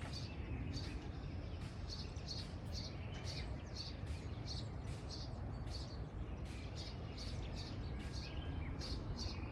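A bird repeating a short, high chirp about twice a second, steadily, over a low, steady rumble.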